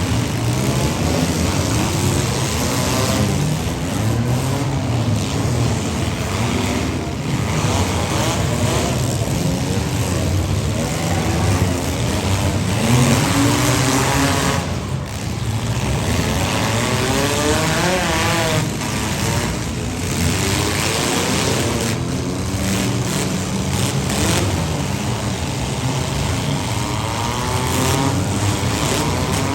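Several compact-car engines revving and running together in a demolition derby, their pitches rising and falling over one another.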